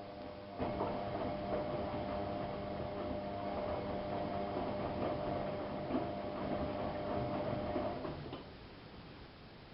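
AEG Lavamat 5210 washing machine turning its drum during a wash cycle. The motor starts suddenly about half a second in and runs with a steady hum while the laundry tumbles. It stops about eight seconds in.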